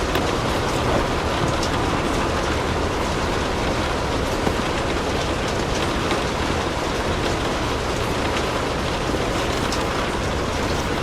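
Steady rain falling, an even hiss with scattered small ticks.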